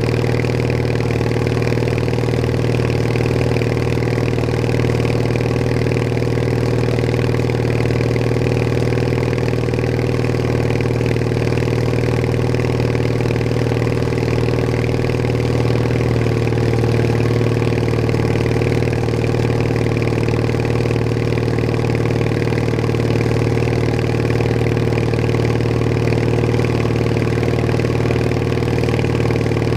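Bolens HT20 garden tractor engine running at a steady, even speed as the tractor is driven along.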